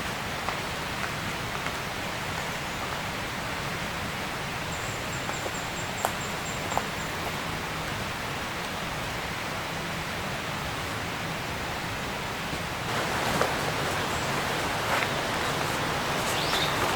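Steady, even hiss of forest ambience, with a faint rapid high trill about five seconds in and a few soft clicks. About thirteen seconds in, louder rustling with crisp clicks begins.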